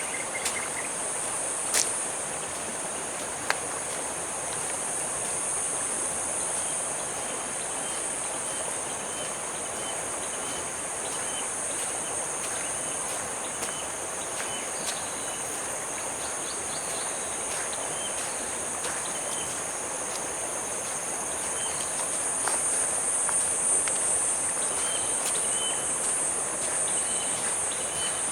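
Insects trilling in a steady, high-pitched chorus that swells a little past the middle, over an even background hiss. Short, faint chirps repeat now and then.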